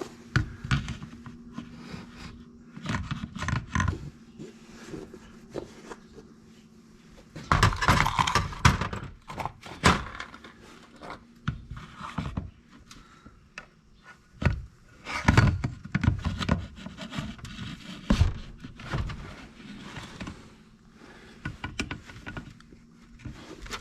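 Irregular scrapes, clicks and knocks of pliers and small chainsaw parts being worked by hand while a rubber grommet is pulled into its seat, with heavier bursts of handling about 8, 10 and 15 seconds in.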